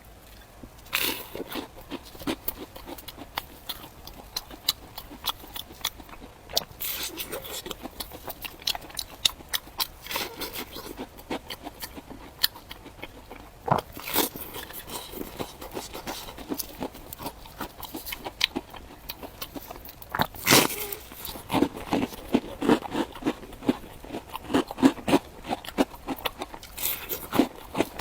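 Close-miked eating of fried bread: crisp bites and crunchy chewing with wet mouth clicks, irregular, with several louder bites scattered through.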